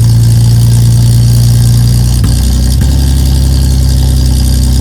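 Ford AU Falcon's 4.0-litre inline-six idling through a newly built custom muffler and side-exit exhaust, just after its first start-up. About two seconds in, the idle drops to a lower speed and settles there.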